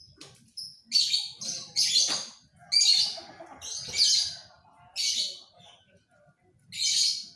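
Pied ('panda') domestic canary singing: a string of short, bright chirping phrases, each under half a second, separated by brief pauses, with a gap of about a second near the end.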